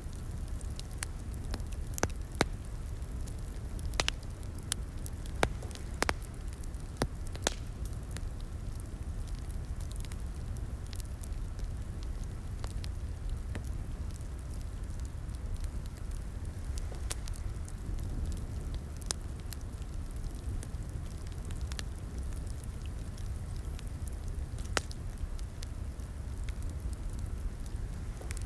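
Wood fire in a fireplace crackling: a steady low rumble of flames with irregular sharp pops and snaps, more frequent in the first several seconds and sparser later.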